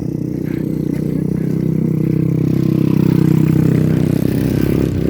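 Motorcycle engine running, getting louder toward the middle and easing off a little near the end.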